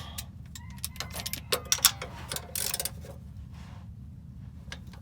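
Hand tools clicking and tapping during spark plug work, likely including a socket ratchet. There is a scatter of sharp clicks, with a quick run of ratchet-like clicks a little before the middle, over a steady low hum.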